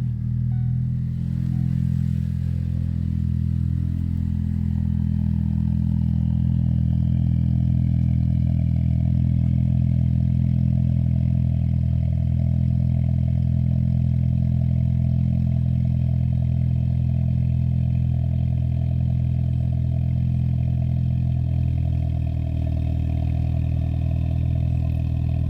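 2013 Ford Focus ST's turbocharged 2.0-litre EcoBoost four-cylinder, upgraded with a Garrett GT2860RS turbo, idling steadily just after a cold start.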